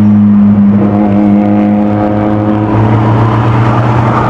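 Nissan Skyline GT-R engine droning at a steady pitch while cruising, heard from inside the car. A higher layer of engine tones comes in about a second in and fades out near the three-second mark.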